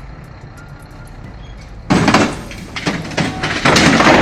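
Heavy machinery: a low steady running noise, then about halfway through a sudden loud crack followed by a run of loud bangs and clatter.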